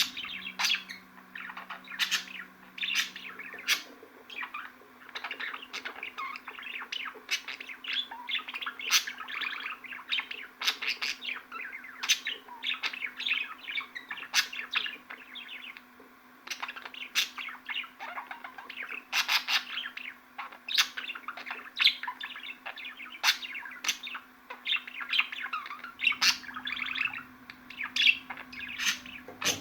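Budgerigars chattering and warbling without pause, with many sharp high chirps mixed into the run of notes. A faint steady low hum lies underneath.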